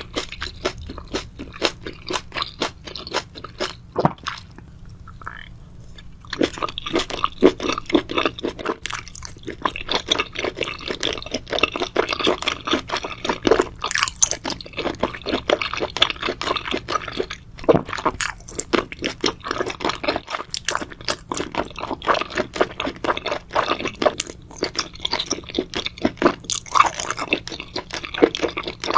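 Close-miked chewing and crunching of food, a rapid run of crackling crunches with a short lull about four seconds in.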